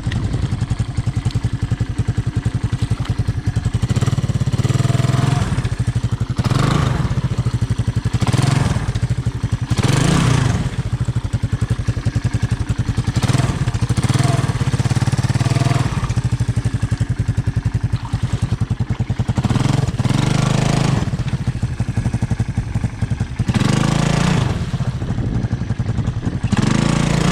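Honda ATC 200M's single-cylinder four-stroke engine running steadily and being revved up in irregular bursts every one to three seconds, with the machine stuck in the creek bed.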